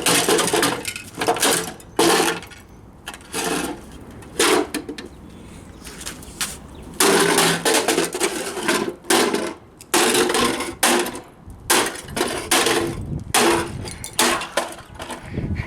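Repeated hammer blows smashing a loudspeaker, about one or two strikes a second, each with a short clattering ring. The blows pause for a couple of seconds in the middle and then resume.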